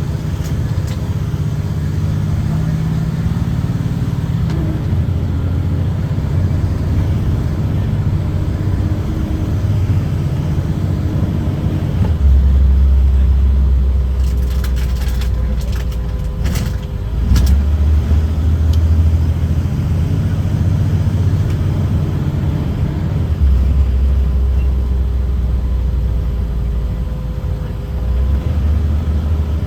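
Caterpillar C7 inline-six diesel of a Blue Bird Vision school bus, heard from inside the cabin: a low, steady drone that swells louder several times, with a few sharp clicks or rattles around the middle.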